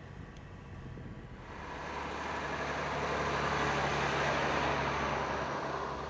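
Volvo FMX truck's diesel engine running steadily, with a rush of tyre and mud noise that swells over the first couple of seconds, peaks mid-way and dies away near the end.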